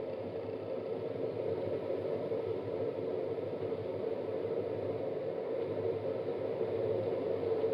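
Panasonic NA-FA100H3 washing machine running with a steady drone: the abnormal bearing noise that the repair sets out to cure.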